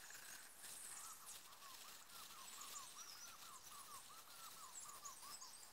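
Faint outdoor birdsong: one bird repeats short, arched whistled notes about three times a second, with fainter high chirps from other birds over a light hiss.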